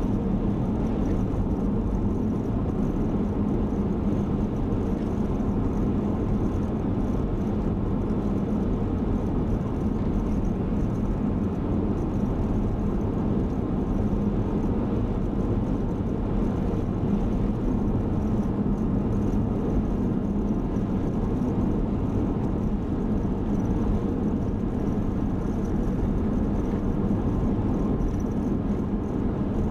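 Steady road noise inside a moving car's cabin: the engine's hum and tyre noise, with no change in pitch or level.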